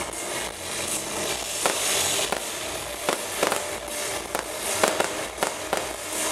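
Fireworks going off: a run of sharp cracks and bangs, close together in places, over a steady hiss.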